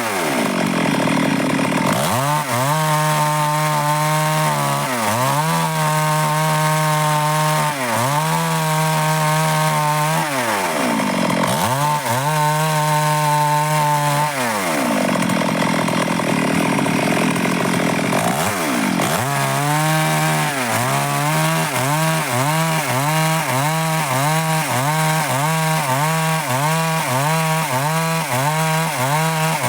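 Stihl MS 382 two-stroke chainsaw running at high revs through dry wood, its engine note dipping and recovering over and over as the chain takes the load. From about twenty seconds in, the dips come quickly, roughly once a second.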